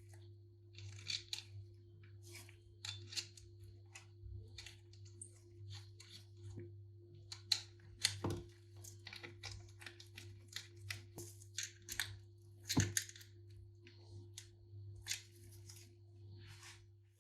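Irregular scraping and knocking of hand work on an old, rusty hammer, with a few sharper knocks about eight and thirteen seconds in, over a steady low hum.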